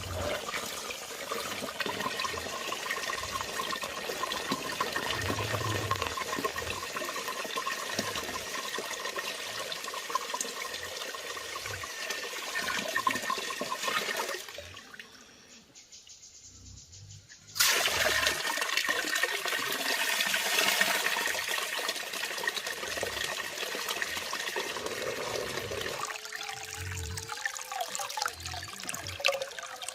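Water running and splashing steadily, dropping away for a few seconds about halfway through and coming back suddenly.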